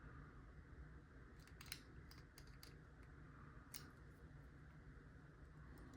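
Faint, irregular clicks and ticks of a small "tickler" lock pick raking the pins of a Master Lock No. 3 padlock.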